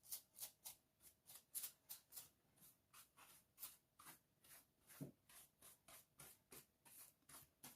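Dry paintbrush bristles whisking dust and cobwebs off a craft display board and its teaspoons: quick, faint, repeated swishes, about three or four a second.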